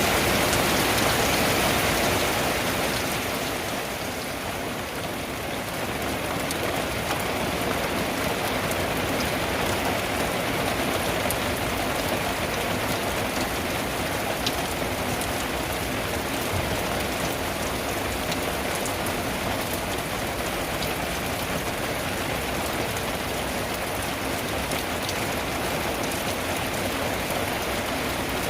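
Steady heavy rain drumming on a tin roof, with individual drops ticking through the wash. It eases slightly a few seconds in, then holds steady.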